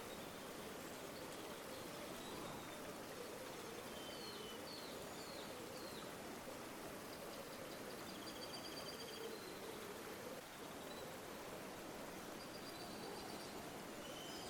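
River water flowing steadily with a gentle gurgle. Small birds call over it: a few short chirps about four to six seconds in, then quick trills around the middle and again near the end.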